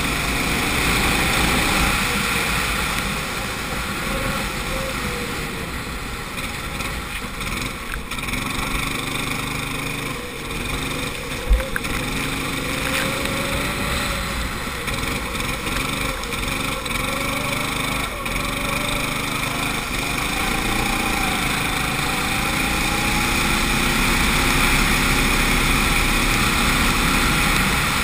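Go-kart engine heard onboard, its revs rising and falling again and again through the corners, over a steady rushing noise. One sharp knock about eleven seconds in.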